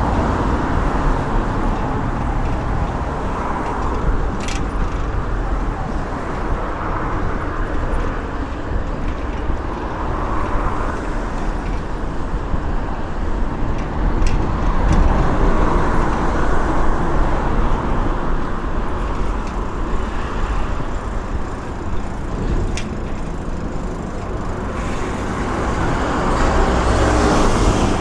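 Road traffic noise: a steady rumble, with vehicles passing in swells every few seconds.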